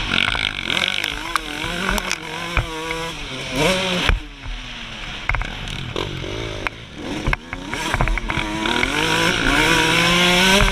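2003 Suzuki RM125's 125cc two-stroke single revving hard, its pitch rising and falling with the throttle. It backs off to a lower note about four seconds in, then climbs again towards the end, with rushing wind noise throughout.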